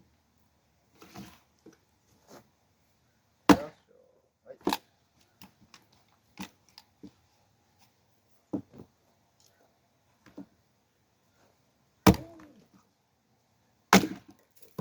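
Firewood being split by hand: sharp blows striking logs, the loudest about three and a half, twelve and fourteen seconds in, with lighter knocks between.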